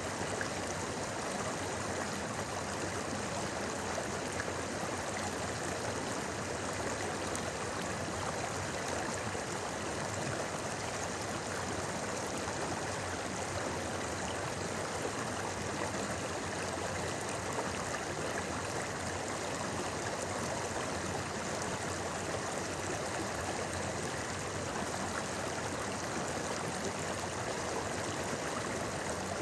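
River babbling: a steady, unchanging rush of flowing water.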